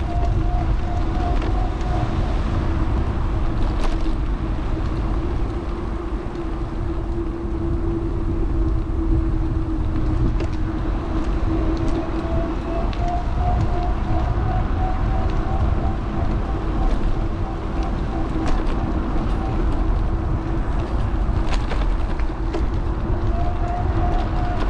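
Electric bike motor whining at a steady pitch over a constant low rumble of wind and tyres on the road.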